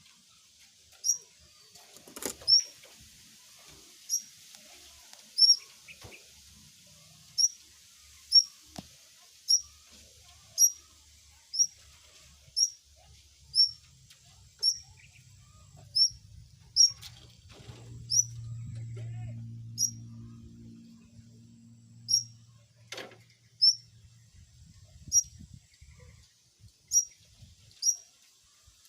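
A small bird giving short, high chirps over and over, about one a second. A low hum swells and fades midway, and there are a few sharp clicks.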